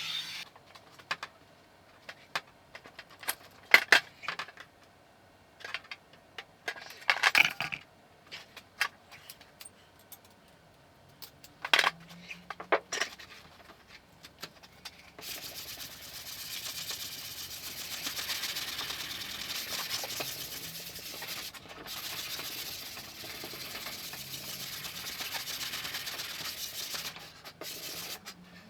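Scattered sharp metallic taps and knocks of bodywork tools on a car's sheet-metal panel. About halfway through they give way to roughly twelve seconds of steady rubbing noise.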